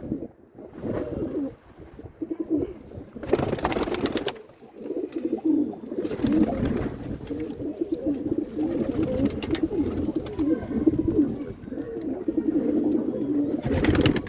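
A flock of domestic pigeons cooing continuously, with many overlapping low, wavering coos. Three short rushes of noise cut across them, about three seconds in, about six seconds in, and near the end.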